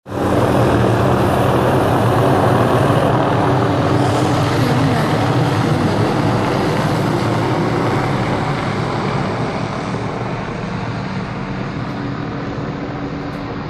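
Helicopter flying low overhead, its rotor and engine running steadily, growing gradually fainter over the second half.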